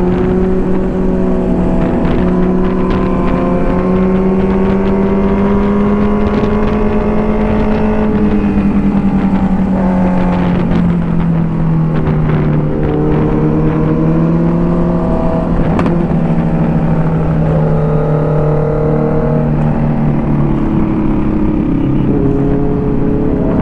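Superbike engine running under way, steady and loud, its pitch sliding up and down and stepping with throttle and gear changes.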